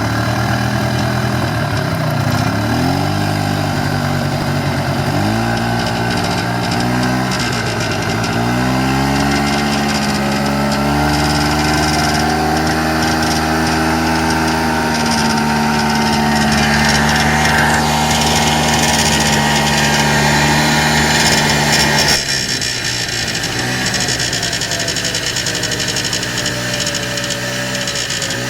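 1994 Polaris Xplorer 300 ATV engine revved up and down a few times, held at higher revs for about ten seconds, then dropping suddenly as the throttle is released and slowly picking up again. A buzz comes with it at certain revs and on deceleration, which the owner has had since a top-end rebuild and has not traced to anything rubbing or vibrating.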